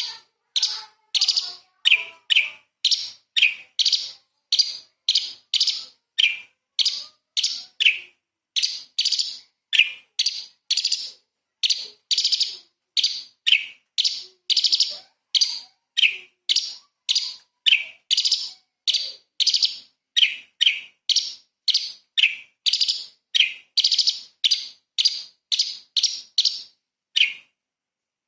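Orange-bellied leafbird (cucak cungkok) calling in a fast, even string of short, sharp, high notes, about two a second, with clean gaps between them.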